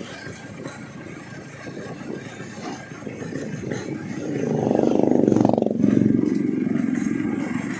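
Yamaha RX-King two-stroke single with a gutted exhaust, running under way. About four seconds in the throttle opens and it gets much louder for about three seconds, then eases off.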